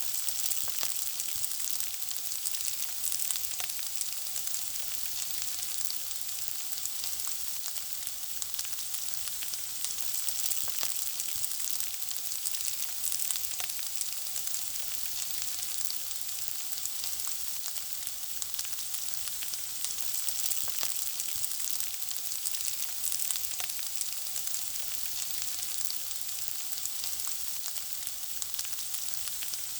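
Food frying in hot oil: a steady high sizzle with constant small crackles and pops.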